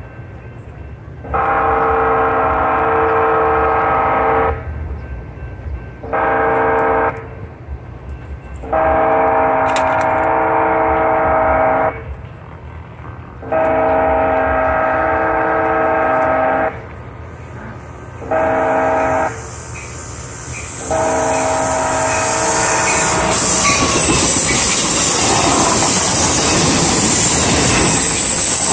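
Approaching train's multi-chime air horn sounds six blasts, long ones of about three seconds and two short ones of about one second, each a chord of several tones. About two-thirds through, the horn stops and the train passes close by, with loud rolling noise, wheel clatter and a high hiss from the rails.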